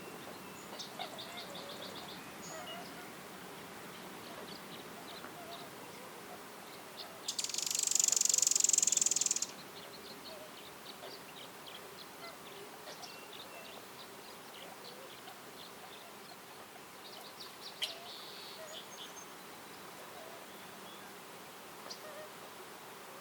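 An insect's dry, high buzzing call lasting about two seconds, starting about seven seconds in, the loudest thing here. Faint short runs of rapid ticking calls come before it and again near the end over quiet outdoor ambience.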